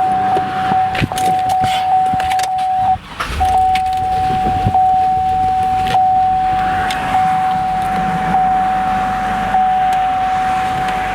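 2003 Chevrolet Avalanche being started: keys jingle and click, and the engine cranks and catches about three seconds in, then idles. Through it a steady electronic warning tone sounds, pulsing about once a second.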